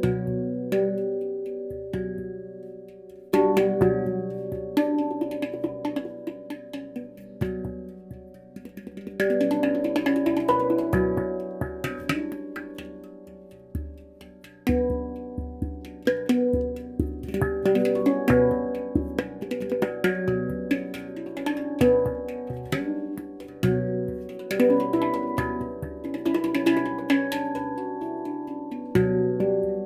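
Stainless-steel handpan (Baopan Ursa Minor) played by hand: a rhythmic stream of struck notes that ring on and overlap, with louder phrases coming in several times, about 3 s, 9 s and 15 s in.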